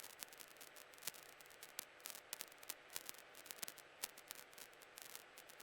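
Near silence on the cockpit audio feed: a faint hiss with scattered soft crackles and clicks.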